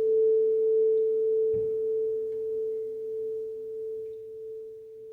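A steady pure tone just below 500 Hz, like a tuning fork, slowly swelling and fading, with a soft knock about one and a half seconds in.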